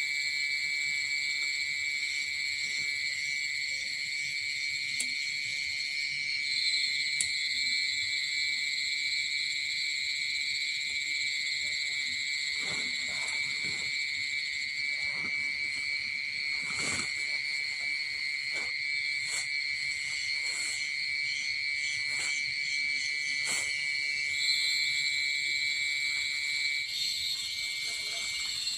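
Steady chorus of forest insects, a continuous high drone, with scattered light knocks and clicks through the middle of the stretch.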